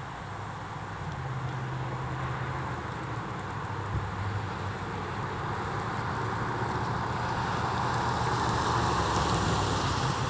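Emergency utility truck approaching on the road, its engine hum and tyre noise growing steadily louder.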